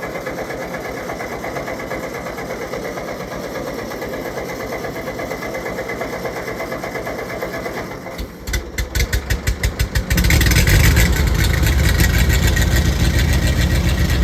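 Old Ford tractor engine running with a steady, even beat for about eight seconds. It then dips briefly and pulses unevenly for a couple of seconds, and from about ten seconds in runs much louder and steady.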